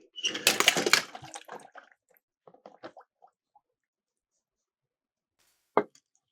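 Miniature toy cars clattering and splashing into water in a loud burst during the first second, followed by scattered light clicks and one sharp knock near the end.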